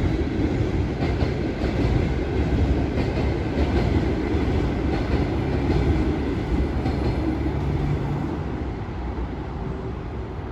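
Passenger train coaches rolling past with a steady rumble and clatter of wheels on the rails, easing off slightly near the end.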